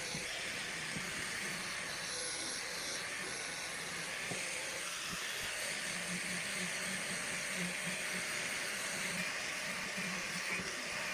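Steady hiss, with a low hum that pulses underneath in the second half.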